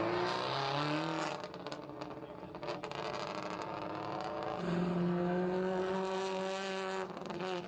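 Rally car engine revving: its pitch climbs in the first second, a few sharp clicks follow, and from past the middle it holds a steady high note for more than two seconds.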